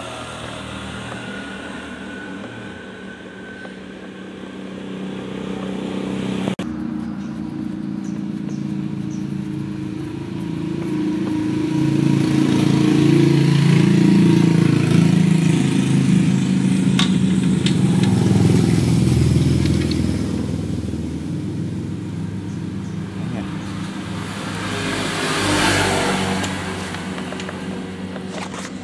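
A motor vehicle engine running close by, its low hum swelling louder through the middle and easing off again. There are a couple of sharp clicks, and a short rush of noise near the end.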